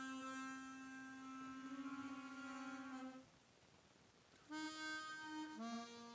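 Suzuki Sirius S48B bass chromatic harmonica played through a Boss MD500 modulation effects pedal with added reverb: one long held note whose level pulses quickly for its last second, ending about three seconds in. After a short pause, a brief note, then a lower held note.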